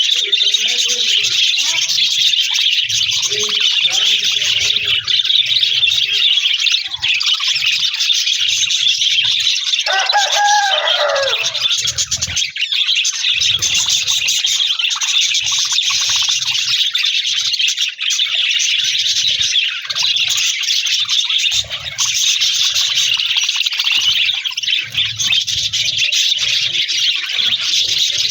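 A flock of budgerigars chattering continuously in a dense, high twittering. About ten seconds in, a lower wavering call rises over it for a couple of seconds.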